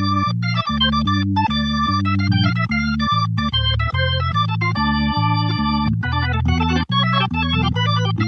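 Nord Electro 6D stage keyboard playing an organ sound: a moving bass line under chords, the notes changing about every half second, with a brief break about seven seconds in.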